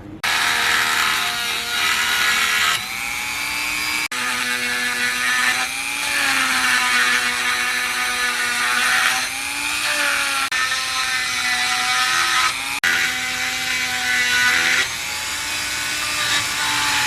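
Handheld electric power tool running steadily while cutting or grinding the new water pump's hose fitting, its whine sagging in pitch whenever it bears down on the part and recovering as it eases off.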